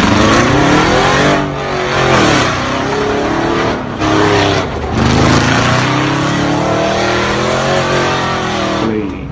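A loud truck engine and exhaust revving, its pitch climbing and falling several times, then dropping away near the end.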